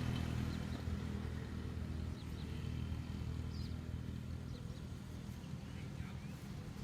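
Low, steady rumble of distant road traffic, fading as a louder vehicle passes off just before it, with a few faint high chirps over it.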